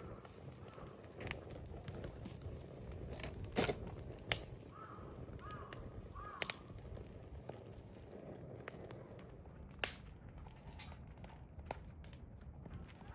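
Hardwood fire crackling in a fire pit, with scattered sharp pops over a low steady rush.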